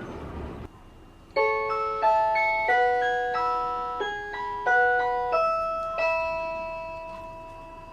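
Train noise cut off abruptly, then a short melody of bell-like chime notes, about eight struck chords that ring and fade, ending on a long held note.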